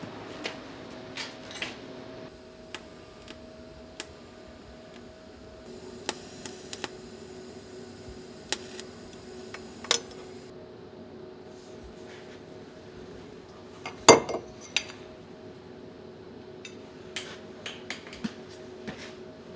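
Metal parts being handled: scattered light metallic clinks and knocks, with one louder clatter about fourteen seconds in, over a faint steady hum.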